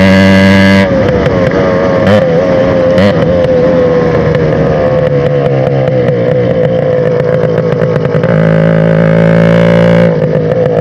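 TVS Max 100R's two-stroke single-cylinder engine running loudly through its exhaust, holding a steady note, with two short blips of throttle about two and three seconds in. The exhaust is loud because the silencer is broken and holed.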